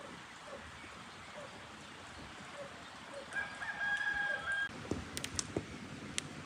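A rooster crows once about three seconds in, a single held call of about a second and a half. A few sharp clicks or knocks follow it.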